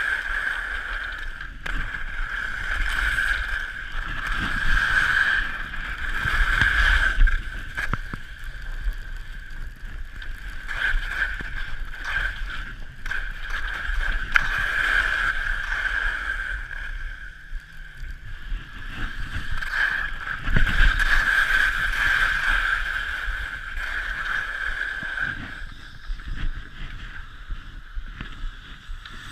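Steady high-pitched whine of a small motor, running continuously with its level rising and falling, over low rumbling wind buffeting on the microphone.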